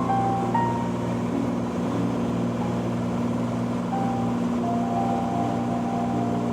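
Cessna T182T's turbocharged six-cylinder Lycoming engine and propeller droning steadily at takeoff power, with faint melodic notes over it near the start and again a few seconds in.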